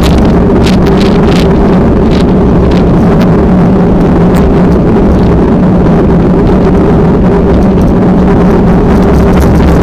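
Loud, steady engine drone under wind rushing on the microphone, with a few faint ticks.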